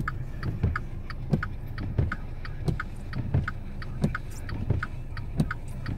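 Inside a car, a low steady hum with sharp regular ticks about three a second and a soft low thump about every two-thirds of a second.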